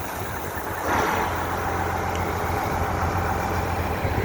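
Fire engine's motor running steadily to drive its pump, which is drawing from the truck's 1000-gallon water tank. About a second in, a louder rushing sound comes up and holds.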